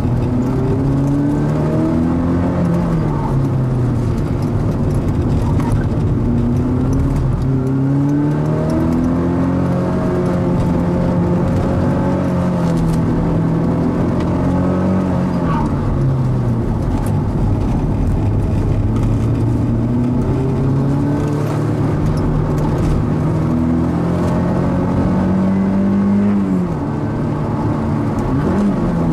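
Mazda NC Roadster's four-cylinder engine driven hard around a circuit. The revs climb for long stretches and then fall away sharply about three times as the driver lifts or shifts.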